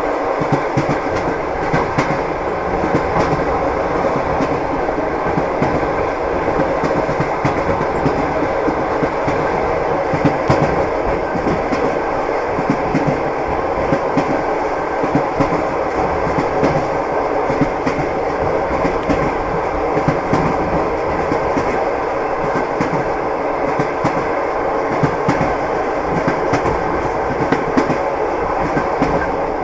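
Train wheels clacking over the rail joints as a railway carriage rolls along: a steady rumble dense with irregular clicks and knocks.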